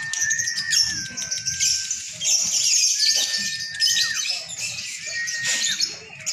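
Lovebirds chattering in a long, unbroken run of rapid high trills, the drawn-out 'ngekek' song of a contest lovebird. A clear, steady whistle-like note, about a second long, recurs several times over the chatter.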